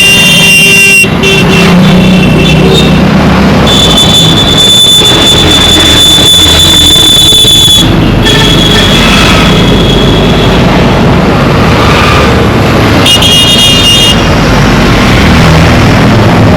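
Dense road traffic with engines running and vehicle horns honking over them. One long horn blast runs from about four to eight seconds in and is followed straight away by a shorter one, and a brief chord-like honk comes about a second after that.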